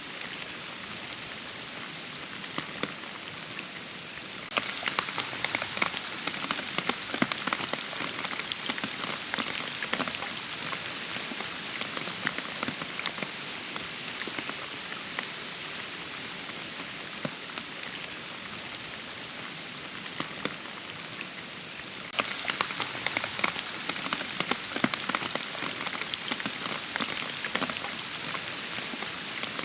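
Steady rain in a forest, with many close drops ticking through the hiss. The patter turns suddenly denser and louder about four seconds in, eases off gradually, then jumps up again about 22 seconds in.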